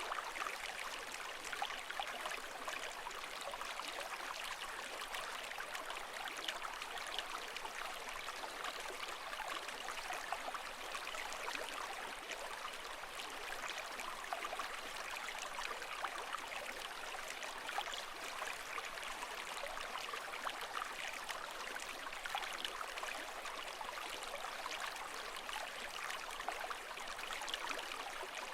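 Steady rushing water, thick with fine crackling and bubbling, holding an even level throughout with no surging swells.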